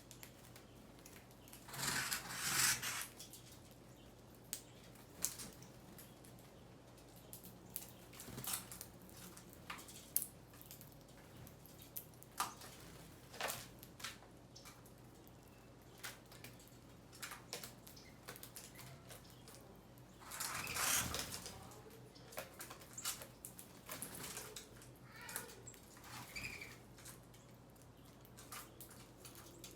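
Small birds at a feeder: scattered light pecks and taps, with two short rushes of wingbeats, about two seconds in and again about twenty-one seconds in, over a steady low hum.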